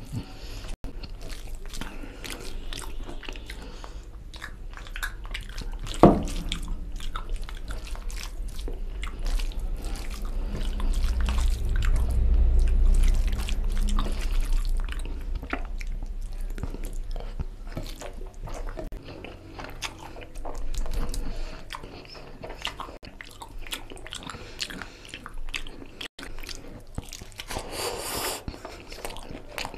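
Close-up mouth sounds of a man eating rice and oily chicken curry by hand: continual wet chewing and biting clicks, with fingers squishing through curry-soaked rice. There is one sharp knock about six seconds in and a low rumble in the middle.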